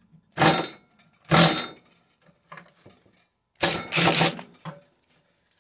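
Three short bursts of metal rattling and clattering from a microwave's sheet-metal parts being worked apart by hand, with light clicks between them.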